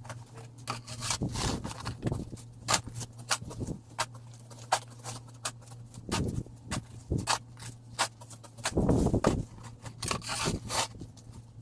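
Snow shovel scraping and scooping snow in irregular strokes, with a longer, louder scrape about nine seconds in, over a steady low hum.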